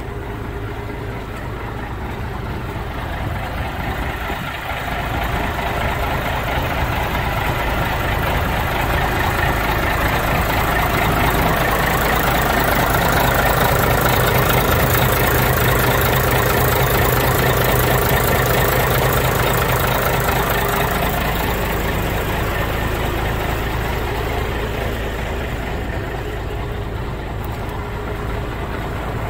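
1983 Mack truck's diesel engine running steadily at idle. It grows louder toward the middle and eases off again near the end.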